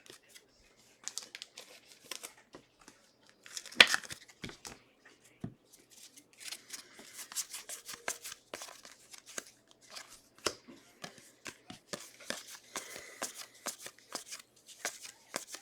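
Football trading cards being handled and flipped through by hand, with light rustling, soft slides and clicks, and one sharper snap about four seconds in.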